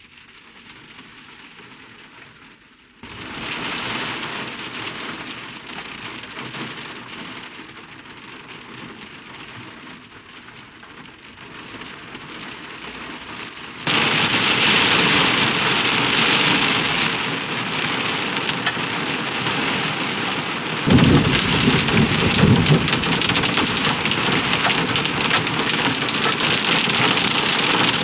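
Heavy rain in a thunderstorm, growing louder in steps. A loud rumble of thunder breaks in about 21 seconds in.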